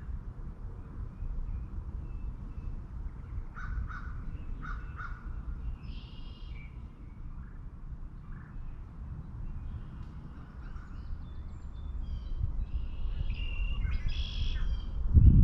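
Wild birds calling over a steady low rumble of wind. About four seconds in come three short harsh caws, typical of crows. Scattered higher chirps follow, busier near the end.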